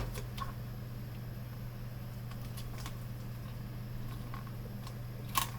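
A few small, sharp clicks and taps as hands handle the parts of an opened monitor, the loudest near the end, over a steady low hum.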